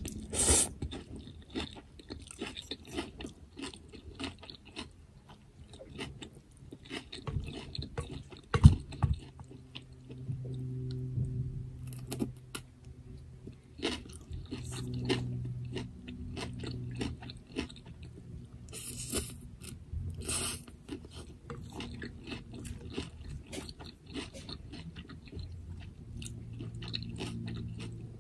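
Close-miked chewing of a Vietnamese vermicelli bowl with beef, shrimp and egg roll: wet mouth sounds with scattered crunches, the sharpest about eight seconds in.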